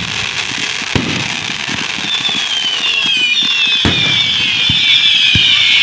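Fireworks going off close by: sharp booms about a second in and just before four seconds over a steady crackle, and from about two seconds a growing chorus of high whistles sliding slowly down in pitch.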